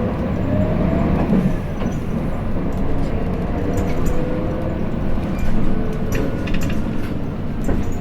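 Inside a Hino Blue Ribbon City city bus (KL-HU2PMEA) under way: steady diesel engine and road noise, with a whine that slowly rises in pitch as the bus picks up speed. A few light rattles or clicks come near the end.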